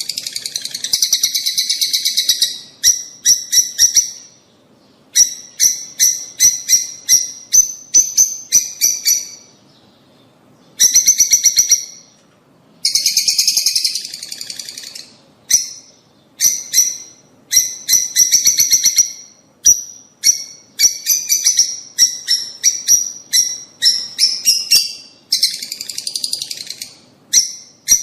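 Lovebirds chattering: bursts of rapid, shrill, squeaky chirps following one another with short pauses between them.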